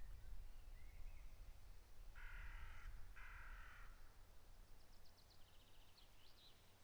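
A crow cawing twice, two harsh calls back to back, with a small songbird's rapid high twittering near the end and a faint low rumble underneath.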